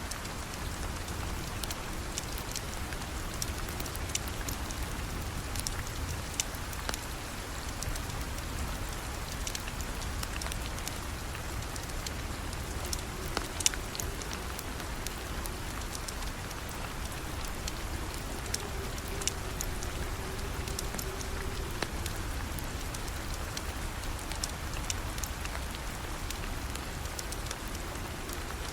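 Steady rain hiss with a wood fire crackling in a fireplace, its sharp pops and ticks scattered irregularly over the rain.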